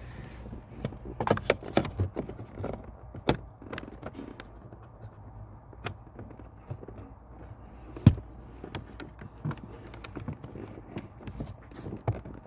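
Irregular plastic clicks, knocks and rustling from handling a car's cabin filter and its plastic housing and clips, with one sharper knock about eight seconds in.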